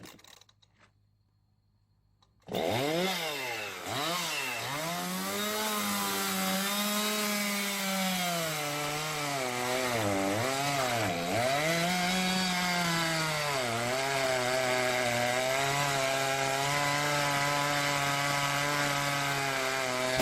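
Excavator engine and hydraulic axe running, starting suddenly about two and a half seconds in. Its pitch sags and recovers several times.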